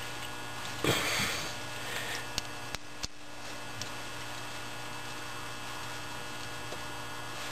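A steady hum, with a short rustle about a second in and a few faint clicks.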